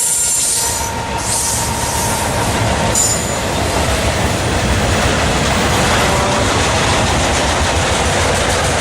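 A train rolling past close by: a steady rumble and clatter of wheels on rail, with brief high wheel squeals about one and three seconds in.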